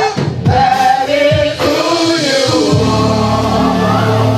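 Church choir and congregation singing a gospel worship song, with a steady low sustained note joining under the voices a little under three seconds in.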